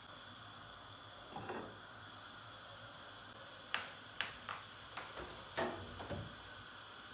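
Kitchen handling sounds: a soft scrape about a second in, then about six sharp clicks and knocks over the next few seconds, as of utensils or dishes being picked up and set down.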